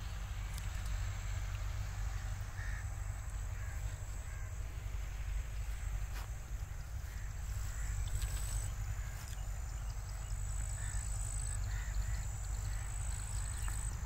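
Scattered short calls of distant birds, several spread through the stretch, over a steady low rumble, with a faint thin high whine coming and going.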